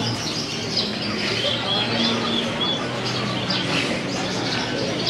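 Many caged birds chirping and calling at once, short high notes overlapping continuously, over a background murmur of people's voices.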